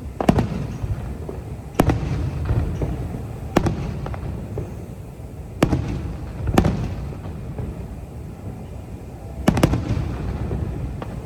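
Aerial firework shells bursting: six or seven sharp bangs, a second or two apart and a couple of them in quick pairs, each trailing off in a low rumble.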